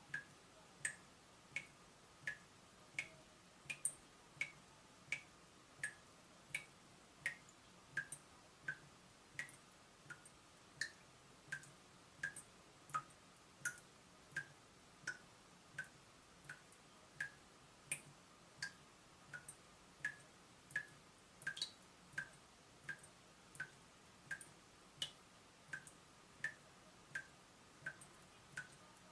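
Water dripping from a leaking tap: single drops land in a steady rhythm of about three every two seconds, each a short plink. A faint steady hiss lies underneath.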